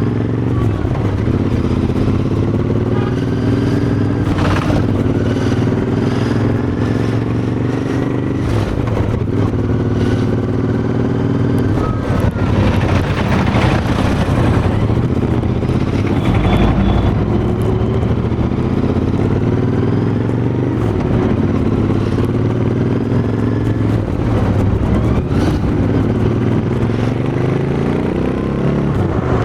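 Royal Enfield Interceptor 650's parallel-twin engine running through its exhaust, its pitch rising and falling again and again as the engine speed changes.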